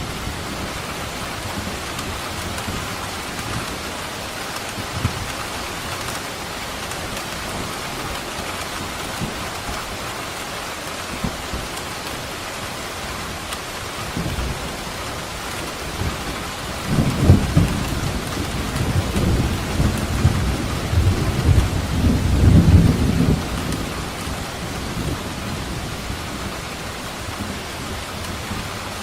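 Steady heavy rain with a roll of thunder rumbling low and loud from just past halfway until about three-quarters through.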